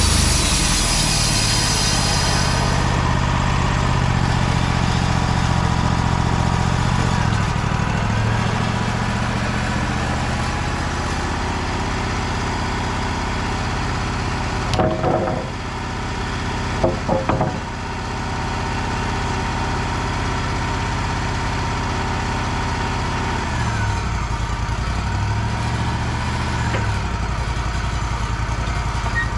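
Wood-Mizer sawmill's engine running steadily between cuts. A high hiss fades out a few seconds in, and there are two short metallic clanks around the middle.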